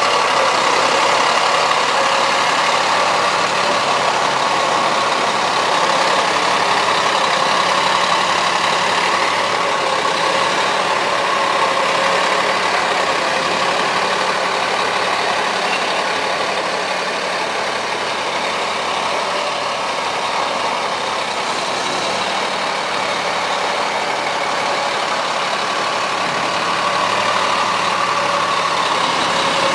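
Truck engine running steadily at idle.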